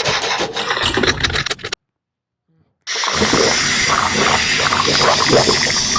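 Close-miked mukbang eating sounds: chewing and wet mouth noises full of small crackles. They are broken about two seconds in by a second or so of dead silence where the video is cut.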